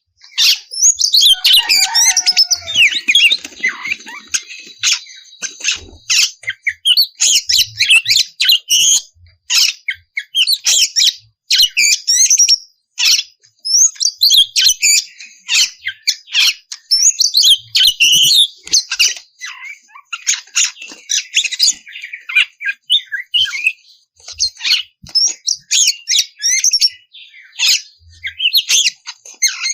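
Oriental magpie-robin (kacer) singing in full, open song: a loud, rapid run of varied high whistles and chattering notes, broken by short pauses.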